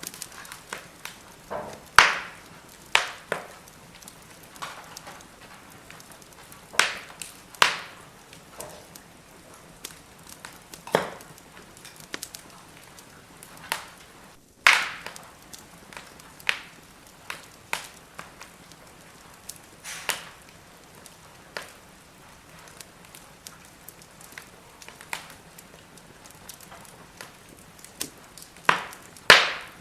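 Split firewood burning in a fire pit, crackling and popping at irregular intervals over a faint steady hiss, with a few louder snaps about two seconds in, near the middle and near the end.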